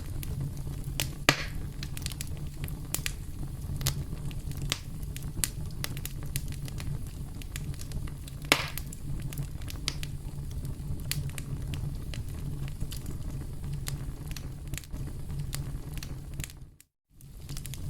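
Campfire crackling: a steady low rumble of burning wood with frequent small pops and two louder snaps, one about a second in and one about halfway. Near the end the sound briefly cuts out.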